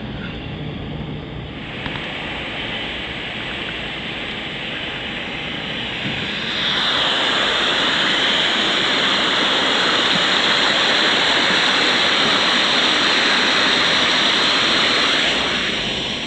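Rushing water of a mountain stream cascade, a steady hiss that swells louder about six seconds in, holds, and eases off again near the end.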